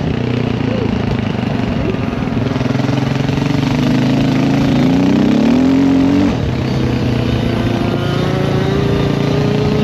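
Dirt bike engine running under way on a trail ride, its pitch climbing and falling as the throttle is worked; the note drops about six seconds in, as at a gear change, then climbs slowly again.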